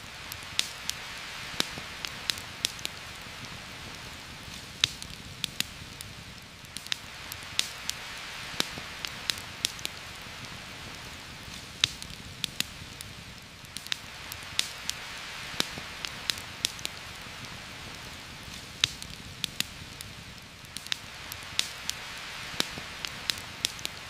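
Steady heavy rain hiss on forest foliage, swelling and easing in slow waves every six or seven seconds, with frequent sharp, irregular crackles and pops from a campfire.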